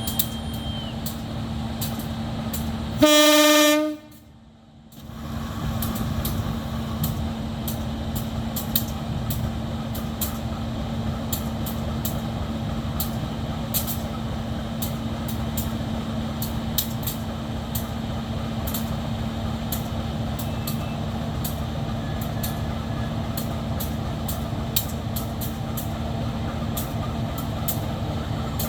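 Diesel locomotive idling steadily with a low drone, and one short horn blast about three seconds in. The sound drops away briefly just after the horn.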